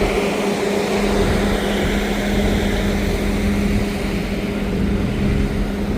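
Steady drone of an idling engine or motor, with a constant low hum and no change in level.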